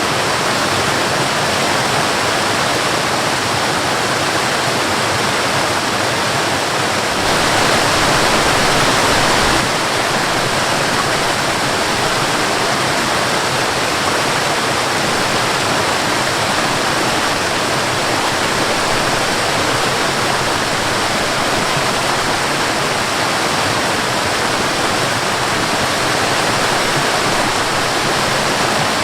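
Waterfall rushing steadily, a little louder for about two seconds some seven seconds in.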